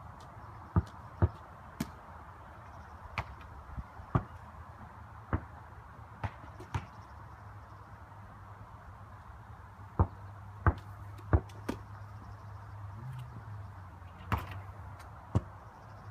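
A basketball bouncing and striking, heard as about fifteen sharp, irregular thumps, some in quick twos and threes, over a low steady hum.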